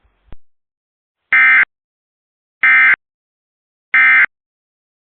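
Emergency Alert System end-of-message data burst sent three times: three short, loud, identical digital warbles about 1.3 seconds apart, marking the end of the alert. A short click comes just before them.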